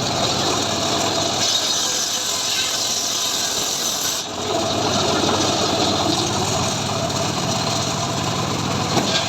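Engine-driven homemade sawmill running and sawing sengon logs: a steady mix of motor and blade noise, with a brief dip about four seconds in.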